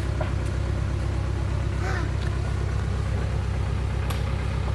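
Truck engine idling steadily, with a couple of faint knocks over it.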